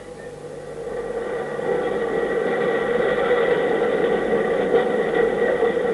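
Electric tram running, a steady hum of motor tones over wheel noise, growing louder over the first two seconds as it approaches, then holding steady.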